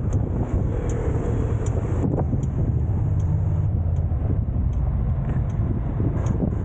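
Steady road noise of a car driving: a continuous low engine and tyre rumble.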